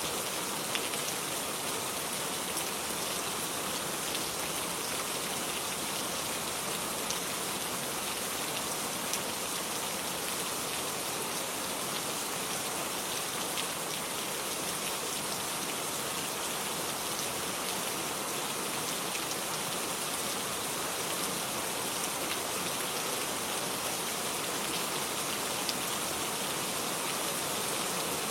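Steady rain falling in a garden, an even hiss with scattered drops pattering on surfaces and a few slightly louder drop hits.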